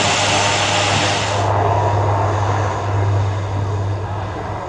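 Alenia C-27J Spartan twin-turboprop transport flying past: a steady low propeller drone under a loud rushing engine noise. The high rush drops away sharply about a second and a half in, and the sound fades toward the end.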